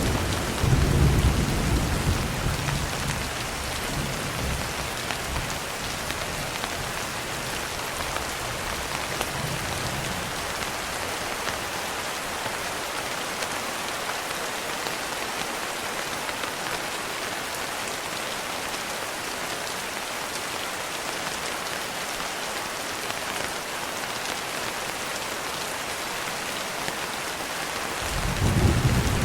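Steady rain, an even hiss of falling drops. A low roll of thunder rumbles at the start and fades away over the first ten seconds or so, and another begins building near the end.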